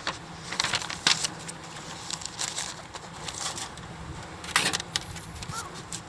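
Thin metal parts of a compact fire pit clinking and rattling as they are handled, in short bursts about one second in and again near five seconds in.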